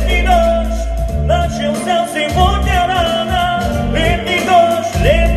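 A singer's voice over a karaoke backing track, holding long, wavering sung notes.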